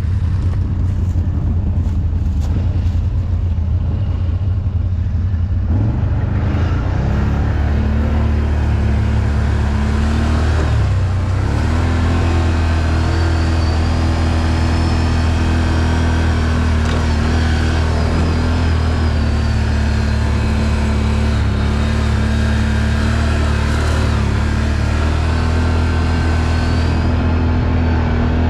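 ATV engine running through mud, revving up about six seconds in, then pulling at a steady pitch with a brief drop and recovery around ten seconds in.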